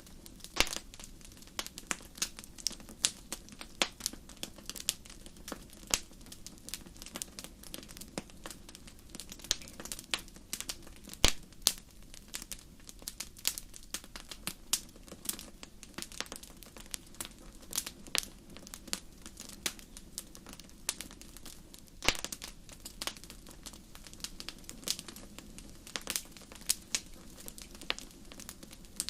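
Wood fire crackling in a fireplace: a steady low hiss with frequent irregular pops and snaps of firewood, a few of them markedly sharper, about eleven and twenty-two seconds in.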